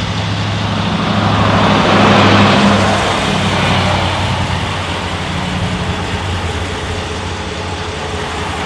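A motor vehicle's engine runs with a steady low hum. A rushing noise swells up about two seconds in and fades over the next couple of seconds, like a vehicle going by.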